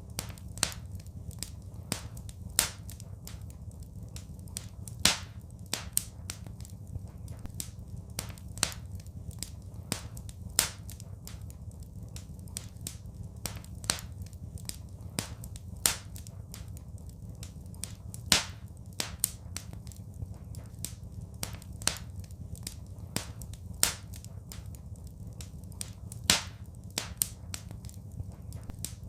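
Wood fire crackling, with irregular sharp pops, several a second and a few louder, over a low steady rumble.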